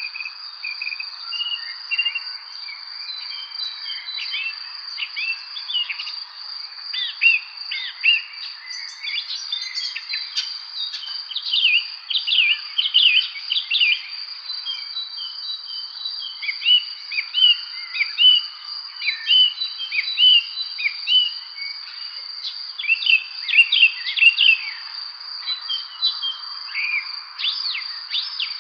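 Evening spring bird chorus: many birds chirping in quick notes that sweep up and down, over a steady high-pitched insect trill. The chirping comes in busier spells, about a quarter of the way in and again near the end.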